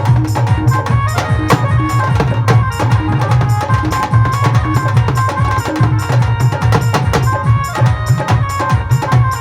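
Live band music from a sound check: a busy, fast drum and percussion rhythm over a steady bass and a held melody line.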